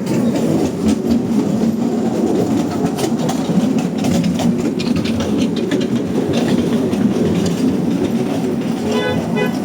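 Steady rumbling of a moving vehicle, with scattered rattling clicks. A short tone with several overtones, like a horn or chime, sounds near the end.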